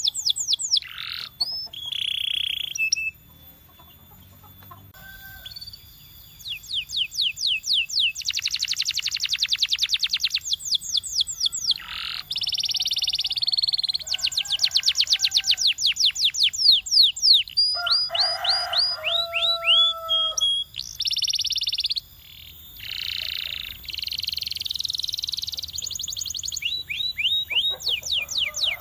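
Domestic canary singing a long, varied song of rapid trills and rolls, fast runs of rising and falling notes broken into phrases, with a short pause a few seconds in.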